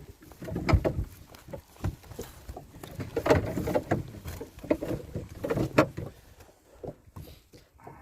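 Irregular knocks and thumps, coming in clusters, most of them in the first six seconds.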